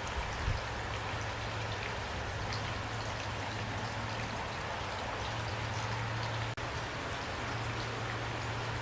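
Steady rain falling, an even wash of noise with individual drops pattering through it and a steady low hum underneath. About two-thirds of the way through, the sound cuts out for a split second and comes straight back.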